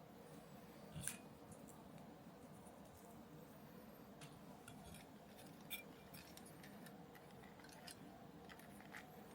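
Faint room tone with scattered small clicks and taps of small parts and tools being handled during model kit assembly; the sharpest click comes about a second in, another a little past the middle.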